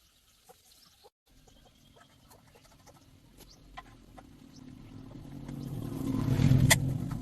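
An engine running, its steady low hum growing louder to a peak about six and a half seconds in, with one sharp click at the peak, then easing off.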